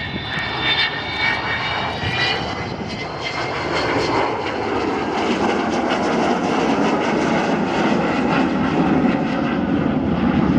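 Avro Vulcan B2 jet bomber's four Bristol Olympus turbojets flying past. Several steady high whistling tones sound for the first couple of seconds, then give way to a loud jet roar that keeps building and drops lower in pitch as the aircraft passes.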